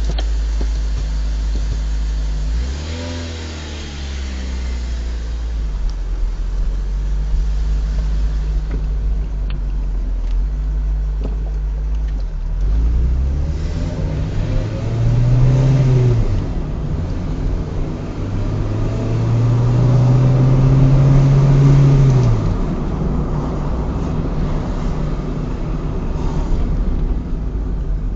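Honda K20 inline-four engine swapped into a Honda Insight, heard from inside the car. It revs briefly up and back down about three seconds in, then runs steadily. Later it climbs in pitch twice under acceleration, each time falling away at the top.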